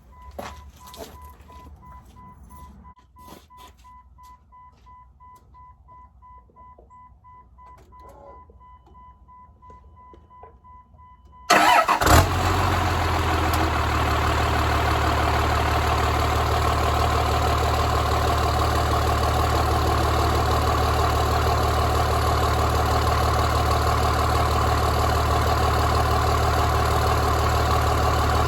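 A steady high-pitched beep, then about eleven and a half seconds in the shop truck's turbo diesel engine catches at once on a freshly installed battery and settles into a steady idle.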